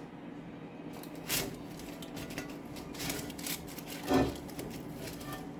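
Scattered light knocks and handling noises over a steady low hum, the loudest knock about four seconds in.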